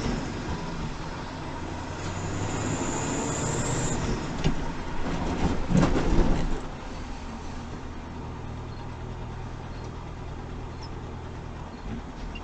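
Vehicle engine and road noise picked up by a dash cam, a steady low hum. From about four and a half to six and a half seconds in comes a louder burst of knocks and rumble, after which the drive settles to a steadier, quieter drone.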